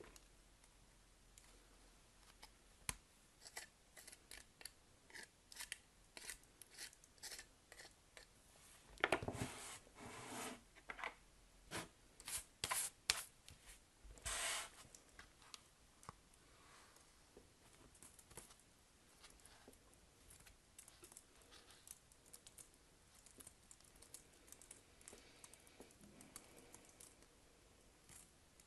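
Soap packaging being opened and handled by hand: a run of small clicks, crinkles and snips, busiest and loudest from about nine to fifteen seconds in, then sparse, faint handling.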